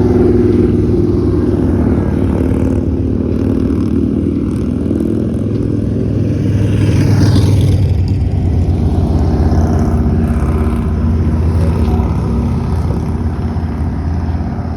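A vehicle's engine running steadily while under way, with road noise. A brief swell of hissing noise rises and fades about seven seconds in.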